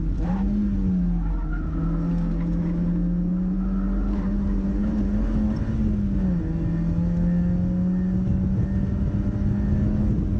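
Mazda MX-5's four-cylinder engine running hard on track, its note climbing steadily and dropping back sharply about a second in and again about six seconds in, over constant road and wind noise.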